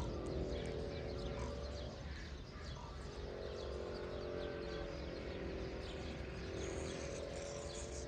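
Birds chirping in many short calls over a steady low hum and rumble.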